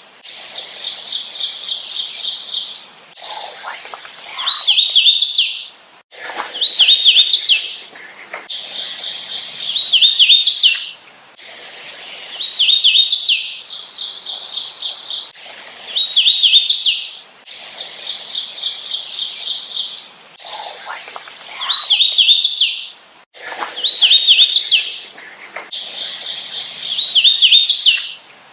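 Hooded warbler singing song after song, one every two to three seconds: clear, slurred whistled phrases, each ending in sharply upslurred notes.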